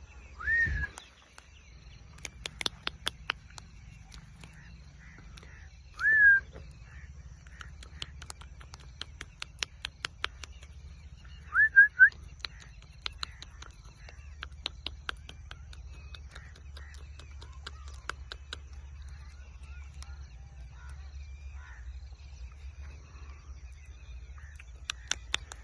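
Ringneck parakeet giving short whistled calls, each rising and then falling, a few seconds apart; one comes as a quick double about twelve seconds in. Between the calls run long series of sharp clicks over a faint low hum.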